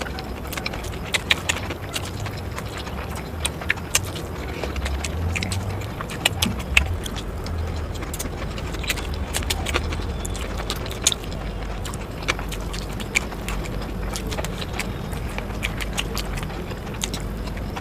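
Eating sounds: irregular sharp clicks and crunches of someone eating, over a low steady rumble.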